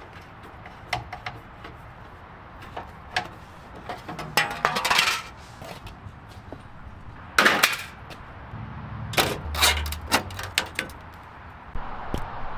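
Small metal objects clinking and clattering in irregular bursts, with a rattling run about four seconds in and a louder clatter near the middle: tools and parts being handled.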